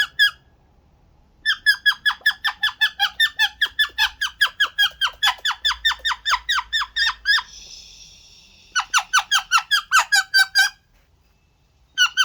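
Pet parrot calling in long runs of rapid, repeated squeaky notes, about five a second, each dropping in pitch. The runs break off twice, and a harsh raspy squawk comes about eight seconds in.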